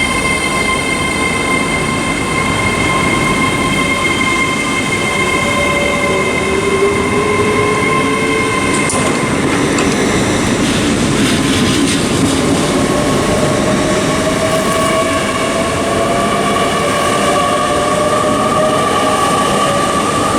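A ten-car Hitachi Class 800 train pulling away, with a steady high hum and a whine that rises slowly in pitch as it gathers speed, over the rumble of the train.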